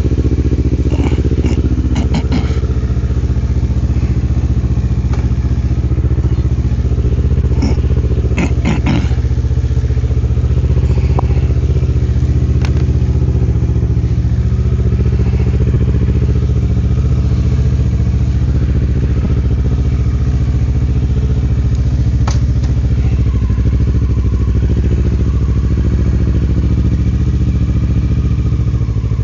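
Motorcycle engine running at a steady, unchanging pitch, with a few sharp clicks or knocks around two seconds in and again about nine seconds in.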